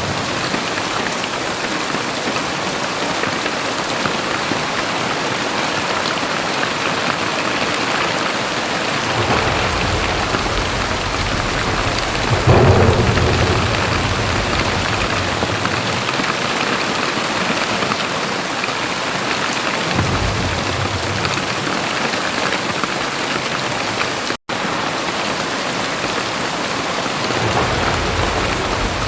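Very heavy rain pouring steadily, with deep low rumbles swelling in and out several times, the loudest about twelve seconds in. The sound cuts out for a split second a little past the twenty-four-second mark.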